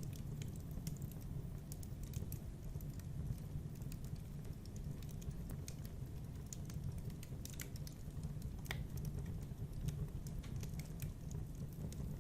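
Wood fire burning in a fireplace: a steady low rumble of flames with irregular small crackles and pops throughout, one sharper pop near the end.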